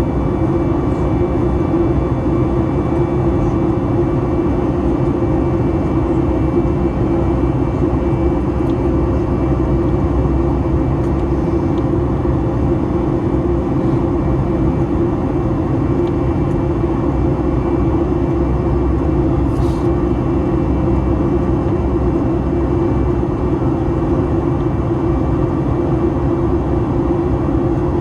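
Steady cabin noise inside a Boeing 737-9 MAX in flight: a constant rush of airflow and the drone of its CFM LEAP-1B turbofan engines, with a few faint steady hums over a low rumble.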